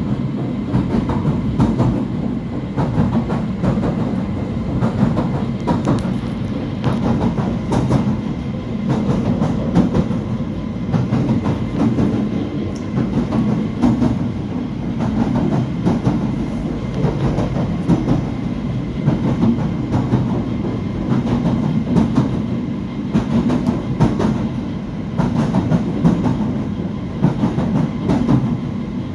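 Southend Pier's electric train running along the pier, heard from inside the carriage: a steady rumble of wheels on the track, with frequent short clicks and rattles.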